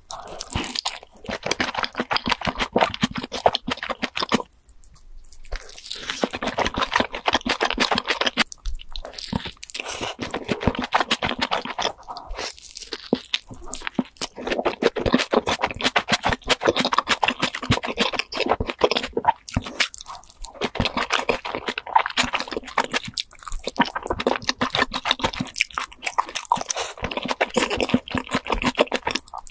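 Close-miked mouth sounds of someone biting and chewing cheesy pizza: dense runs of crunching chewing, broken by a few short pauses.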